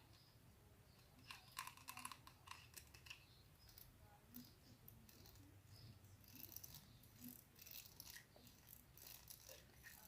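Faint, irregular crackling and scratching handling noises: clusters of soft, short clicks, busiest about a second in and again in the second half, over a low hum.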